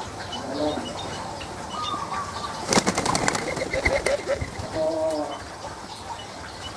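Birds in an aviary: a quick flurry of wing flapping about three seconds in, two low pitched calls, and faint high chirps repeating throughout.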